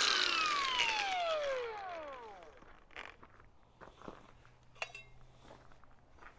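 Angle grinder spinning down after being switched off, its whine falling steadily in pitch and fading over about two and a half seconds. Then a few light metallic clinks and taps.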